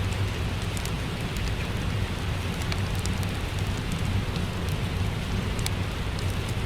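Steady rain with a low rumble, mixed with the sparse snaps and crackles of a wood fire in a fireplace.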